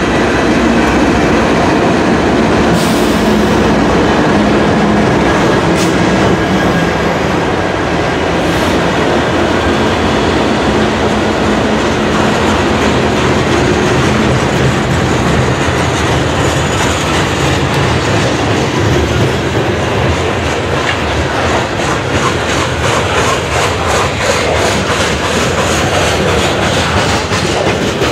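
Freight train passing close by: its trailing diesel locomotives go by first, then freight cars roll past with a steady clickety-clack of wheels over rail joints.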